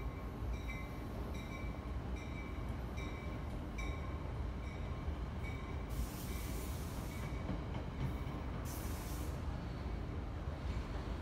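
Passenger train on the far tracks of an electrified station, with a low steady rumble. A high tone pulses about every three quarters of a second for the first four seconds. Two bursts of hiss follow, about six and nine seconds in.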